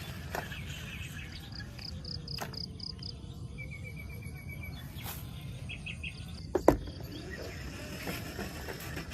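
Birds chirping in short rapid trills over a steady low background rumble, with one sharp knock about two-thirds of the way through.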